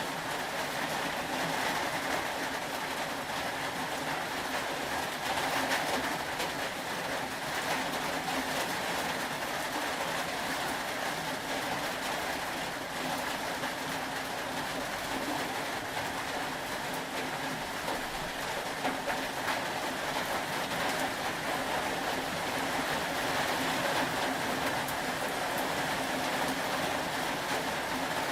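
Steady rain: a continuous even hiss of falling rain that holds level throughout.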